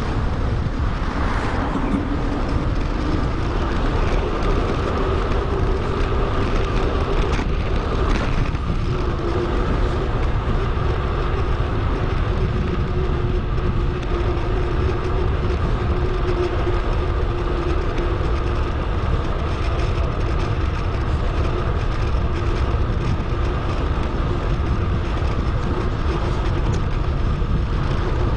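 Wind on a bike-mounted action camera's microphone, mixed with the steady hum of tyres on the road, sped up with the footage.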